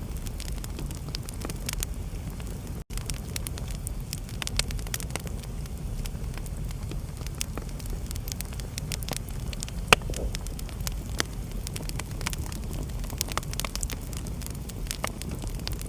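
Wood fire crackling, with many small snaps and pops over a steady low rumble, and one louder pop about ten seconds in. The sound cuts out for an instant about three seconds in.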